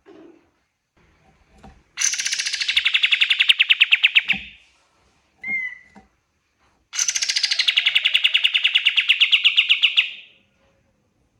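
Kapas tembak songbird singing two long, fast rattling trills, each starting high and settling lower, with a short chirp between them.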